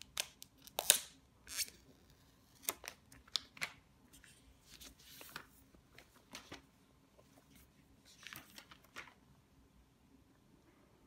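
An iPhone X retail box being unwrapped and opened: irregular sharp clicks and crinkles of packaging being handled. There is a soft sliding hiss about five seconds in, another cluster of crinkles a few seconds later, and only faint handling near the end.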